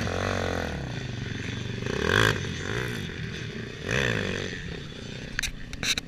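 Motocross bike engines revving on the track, the engine note rising and falling several times as riders work the throttle, loudest about two seconds in. A few sharp clicks near the end.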